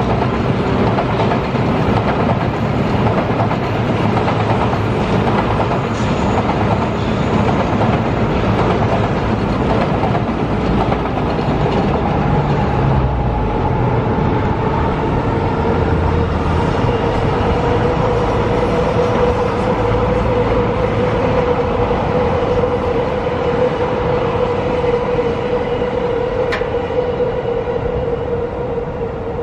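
Passing trains: an N700A Shinkansen set running by, then other electric trains on the line, a steady rumble and rail noise with a steady whine joining about a third of the way in. The noise eases off near the end.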